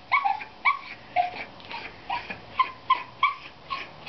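Jack Russell terrier whining and yipping in short, high-pitched cries, two to three a second, some dropping in pitch: the dog is eager to get back at the chicken it has just killed.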